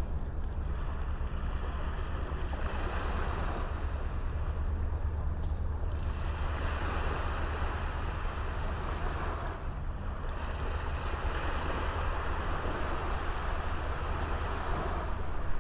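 Small sea waves washing onto a beach, swelling and fading every few seconds, over a low wind rumble on the microphone.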